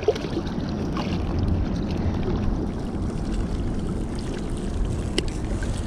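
Steady low rushing of a flooded river's current, with a single light click about five seconds in.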